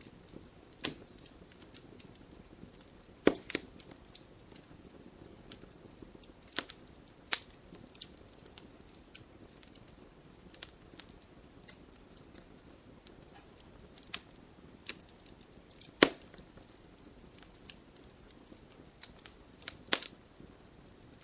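Wood fire in a fireplace crackling: a low steady hiss of flames with irregular sharp pops and snaps, a few of them much louder than the rest.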